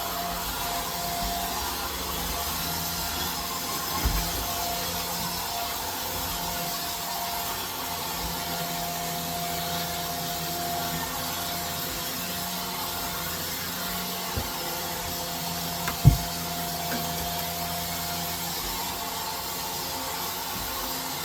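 Shark Stratos vacuum cleaner running steadily with a constant whine while vacuuming. A knock about four seconds in and a sharper, louder knock about sixteen seconds in, with a smaller tap just before it.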